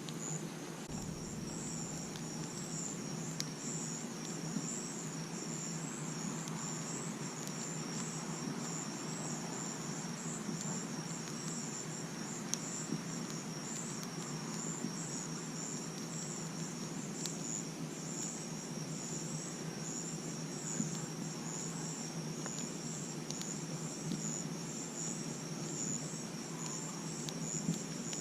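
Night insects chirping in a steady, fast pulsing trill, joined about a second in by a second steady high-pitched insect drone. Underneath, a campfire burns with a low rush and occasional sharp crackles and pops.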